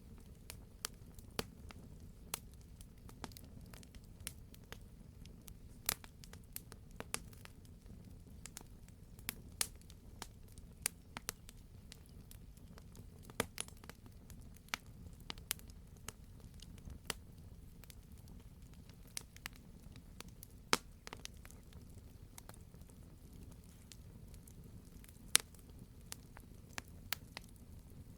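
Wood fire burning in a fireplace: a steady low rumble with irregular sharp crackles and pops, several a second, a few of them much louder than the rest.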